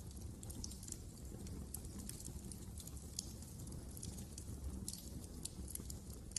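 Fire burning in a fireplace, with many irregular small crackles and snaps over a low steady rumble.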